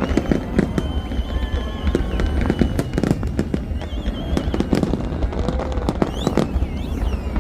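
Large fireworks display: a rapid, unbroken series of bangs and crackles over a continuous low rumble, with thin wavering whistles above.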